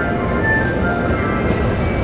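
Keio 9000 series electric train running, heard from inside the car: a steady low rumble of wheels on rail under a set of thin whining tones from the traction inverter and motors that shift in pitch in small steps. A short sharp tick about one and a half seconds in.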